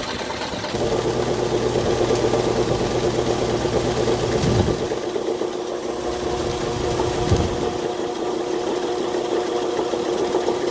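Farm machinery engine running steadily with a droning hum that steps up about a second in; the lower part of the hum drops away about halfway through.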